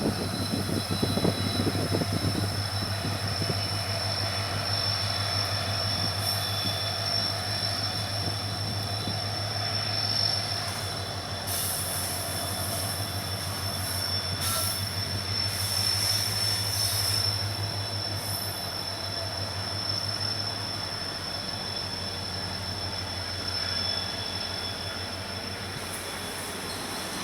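Train running past on the Konkan Railway: a steady low rumble with a fast rhythmic pulse that fades after about twenty seconds, under a thin, steady, high-pitched wheel squeal.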